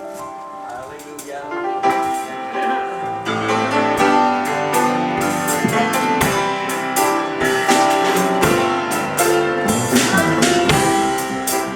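Gospel church band playing a song's instrumental introduction: piano chords, with drums joining in a few seconds in and the music building from there.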